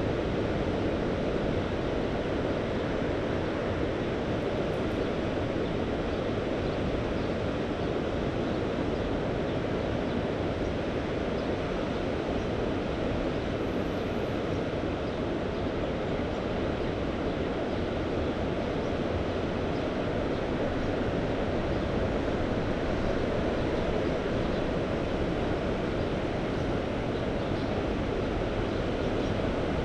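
Mediterranean sea waves washing steadily, with wind, as an even rushing noise that holds the same level throughout.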